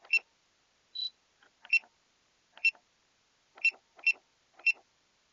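Six sharp, high clicks spaced irregularly, like button presses, with one short high-pitched beep about a second in.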